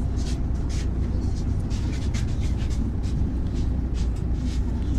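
Inside a MAZ 103 city bus under way: a steady low rumble of engine and road, with frequent light clicks and rattles from the cabin.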